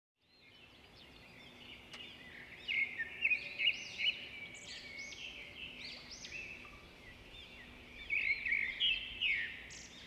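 Small songbirds chirping in quick, repeated calls over a faint steady background hiss, fading in at the start, with clusters of louder chirps about three seconds in and again near the end.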